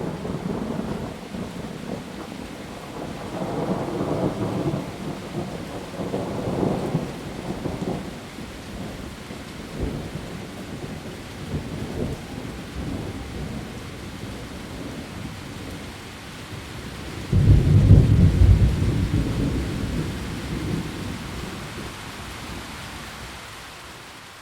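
Steady rain falling on leaves with thunder rolling through it: a low rumble in the first third, then a sharp, louder thunderclap about 17 seconds in that rumbles away over several seconds.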